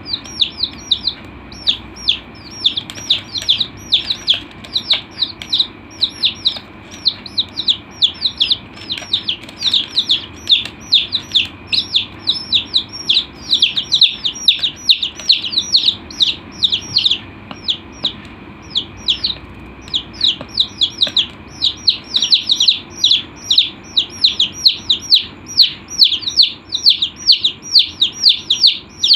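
Baby chicks peeping: a steady stream of high, downward-sliding cheeps, several a second, with a brief lull about two-thirds of the way through.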